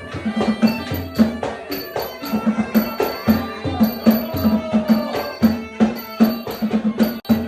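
Southern Thai Nora ensemble music striking up suddenly: fast traditional percussion with drums, a repeated low pitched beat and small ringing cymbals.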